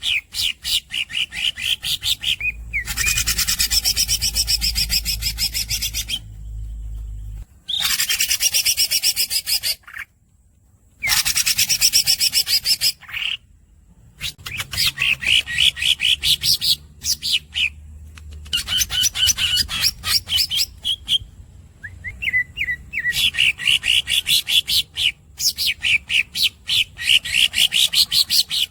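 Green leafbird (cucak ijo) singing in rapid phrases of repeated squeaky notes, broken by several long continuous rolling trills of two to three seconds each, with short pauses between phrases.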